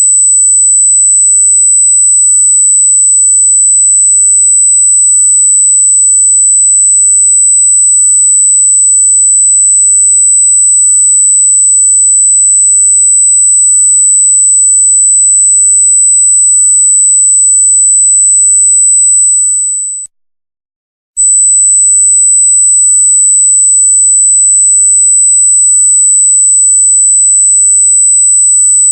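Loud, very high-pitched steady electronic sine tone, a single unwavering whine. About two-thirds of the way through it fades out, leaves about a second of silence, then cuts back in abruptly at full loudness.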